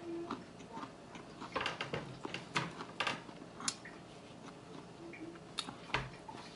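Close-miked chewing of food, heard as irregular wet clicks from the mouth, with a dull thump near the end.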